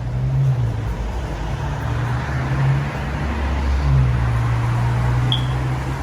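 A vehicle running, a steady low engine hum with road noise, and a brief high chirp about five seconds in.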